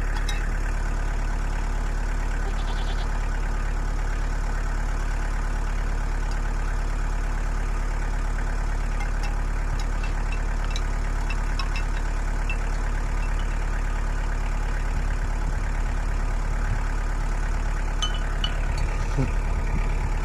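Kubota B3000 compact tractor's diesel engine idling steadily, with a few light clicks and ticks near the middle and toward the end.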